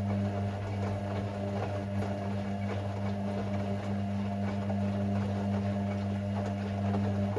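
Hoover Six Sportswear 1300 washing machine's drain pump humming steadily, with faint ticks over it, then cutting off suddenly at the end.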